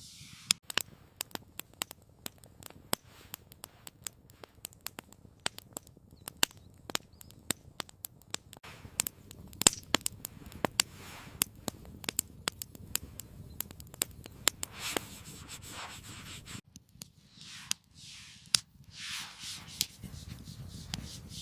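Wood campfire crackling, with irregular sharp pops and snaps over a low steady rumble. About three-quarters of the way through the crackle stops and a few soft rushing swells rise and fade.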